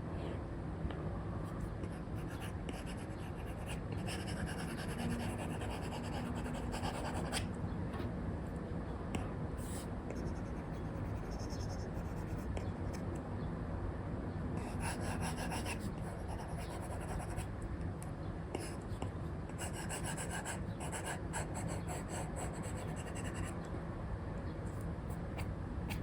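Apple Pencil nib scratching and tapping across a paper-like screen protector on an iPad, in bursts of quick short strokes over a steady low hiss.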